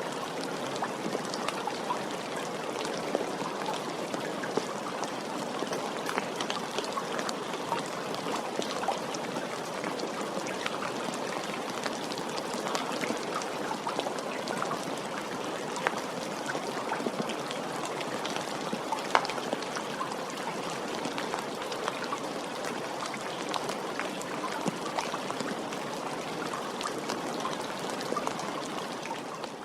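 Steady soft rain: an even hiss of rainfall dotted with many small drop ticks, a few louder drops standing out now and then.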